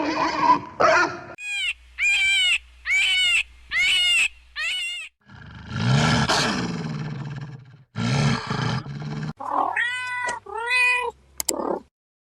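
A series of animal calls from clips that follow one another: five short, arching high calls, then one longer, rough, lower call, then three more arching calls, with two sharp clicks near the end.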